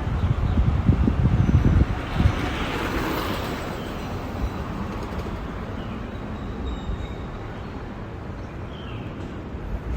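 Outdoor ambience from a bicycle ride: low wind rumble on the microphone for the first two seconds, then a swell of passing road noise about three seconds in that fades away, with a few faint bird chirps near the end.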